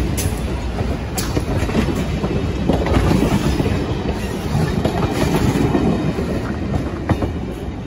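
Passenger coaches rolling past at close range: a steady wheel-on-rail rumble with the clickety-clack of wheels over rail joints.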